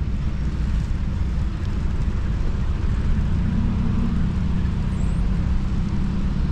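Steady road-traffic noise from cars on a busy road: a continuous low rumble with no single passing vehicle standing out.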